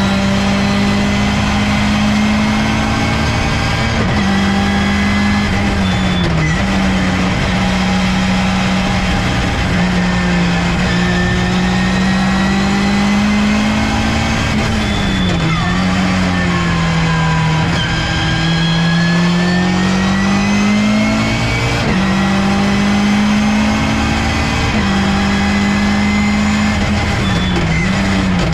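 Ginetta G40 GT5 race car engine heard onboard, driven hard around a lap. The engine holds high revs, and its pitch drops and climbs back with gear changes and braking, most clearly about halfway through and near the end.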